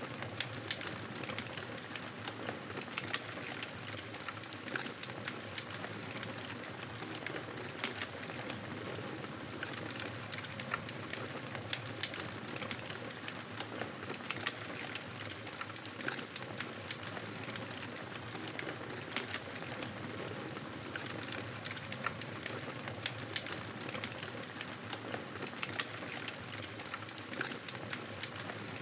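Fire crackling in a fireplace: a steady hiss with frequent sharp pops and snaps scattered throughout.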